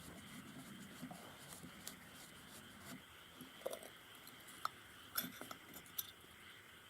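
A few light, sharp metallic clicks and clinks of small carburetor parts and hand tools being handled, spaced irregularly and strongest in the second half.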